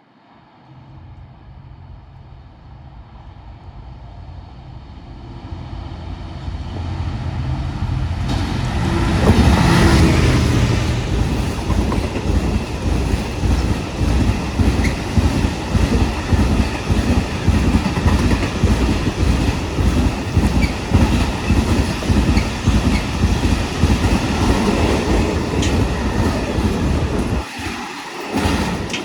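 Diesel locomotive-hauled train approaching and passing, its engine growing louder to a peak about nine seconds in as the locomotive goes by, then the wheels of the following vehicles clattering steadily over the rail joints.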